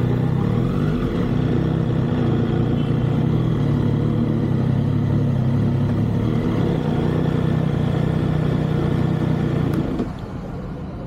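Motorcycle engine running steadily under way, with a slight pitch shift in the first second or so. The level drops sharply about ten seconds in.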